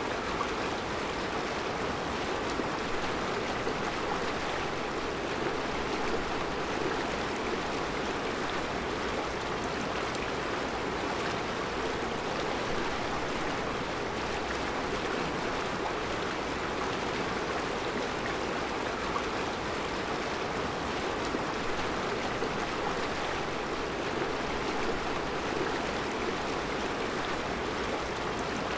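Mountain river rushing steadily over round rocks in a rocky bed, an even rush of water with no breaks.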